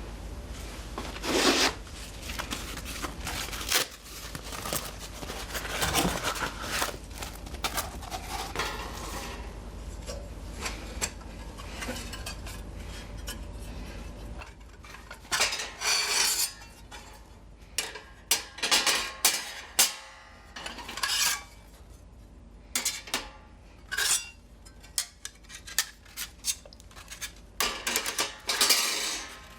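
Metal parts of a fire pit being handled as its folding stand is folded and fitted inside the stove body: rubbing and scraping of metal on metal in the first half, then a string of irregular sharp clanks and clinks.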